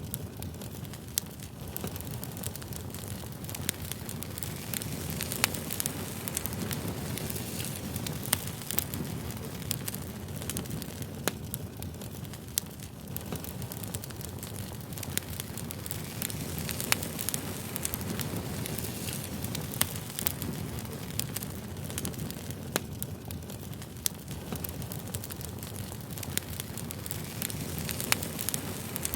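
Campfire crackling: a steady low rush of burning wood with frequent sharp snaps and pops scattered throughout.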